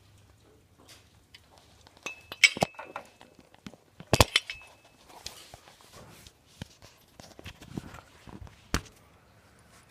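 Irregular metallic clinks and knocks with no engine running. The two loudest, about two and a half and four seconds in, each ring briefly in one high note, like struck metal.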